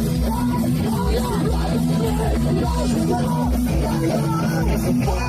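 Punk rock band playing live, loud and without a break: electric guitars, bass and drums.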